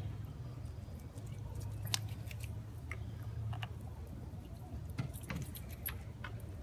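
Scattered small clicks and crackles over a steady low rumble as barbecue sauce is brushed onto chicken cooking on a grill.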